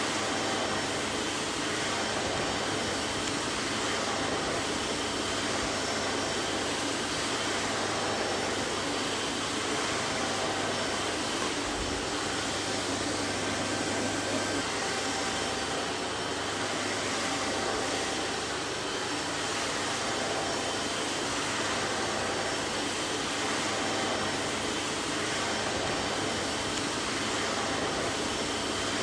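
Vacuum cleaner running steadily: an even rushing whoosh of air with a faint steady motor whine and a low hum underneath.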